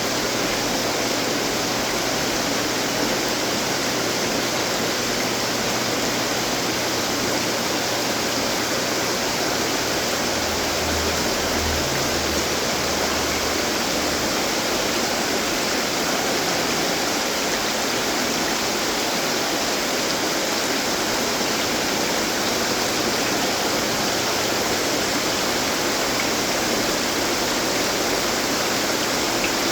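Decorative water fountains running, a steady splash and trickle of falling water into basins.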